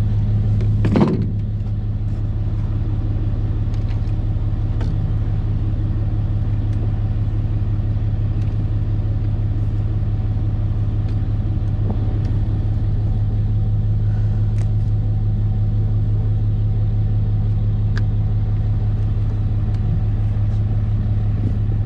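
A motor engine running at a steady speed, giving a constant low drone. There is a short knock about a second in.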